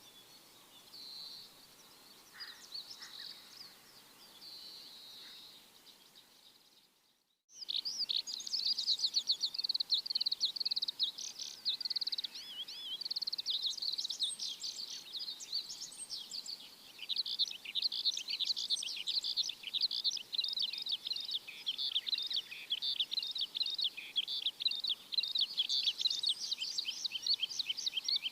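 Many small birds chirping: faint, scattered calls at first, then, after a brief dropout about a quarter of the way in, a dense and much louder chorus of rapid high chirps.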